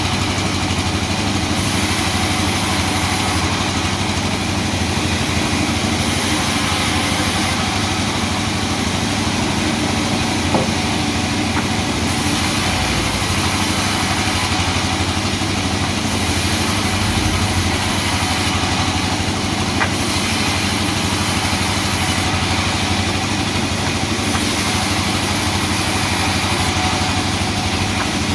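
Sawmill machinery running with a steady, engine-like hum, with two brief knocks, one about ten seconds in and one near twenty.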